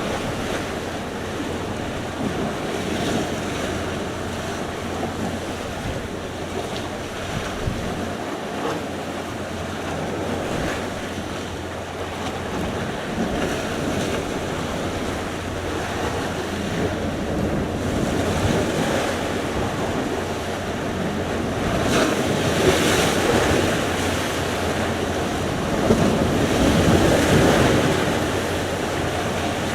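Sea surf: waves washing in continuously, with two swells of louder breaking near 22 and 27 seconds in, and wind buffeting the microphone.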